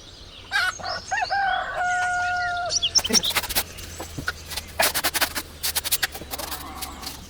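A rooster crows once, the call ending in a long held note. It is followed by an irregular run of sharp clicks and knocks.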